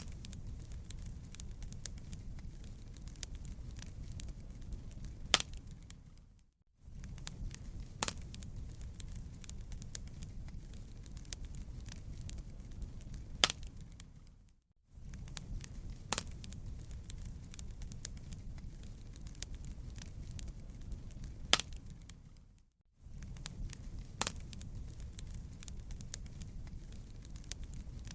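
Fireplace fire crackling: a steady low rumble with scattered sharp pops. It drops out briefly about every eight seconds and fades back in, a short recording repeated in a loop.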